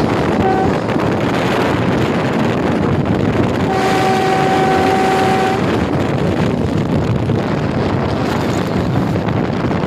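Train horn: a brief toot, then a steady blast of about two seconds, over continuous train running noise and wind buffeting the microphone.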